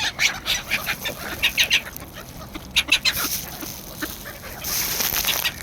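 Chickens clucking in quick, short calls while being hand-fed, with a brief rustle about five seconds in.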